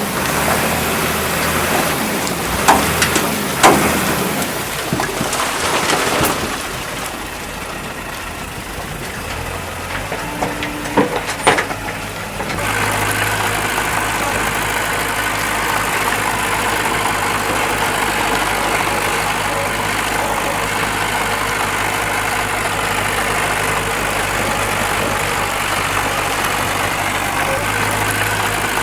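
Heavy diesel earthmoving machinery running, with a few sharp knocks in the first part. About twelve seconds in the sound changes abruptly to a steady, even engine drone.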